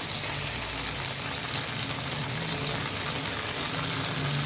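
Tomato and onion masala sizzling steadily as it fries in oil in a pan.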